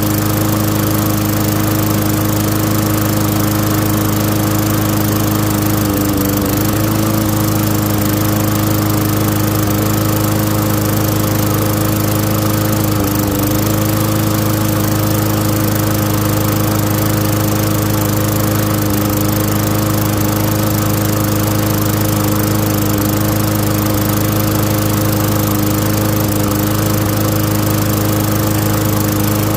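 Craftsman push mower's Tecumseh single-cylinder engine running steadily, its note sagging briefly a couple of times.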